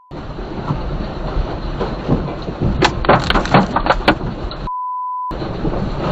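Loud rumbling noise with rapid clattering knocks and rattles, busiest about three seconds in. About three-quarters of the way through, the sound is cut for half a second by a steady censor-style beep tone.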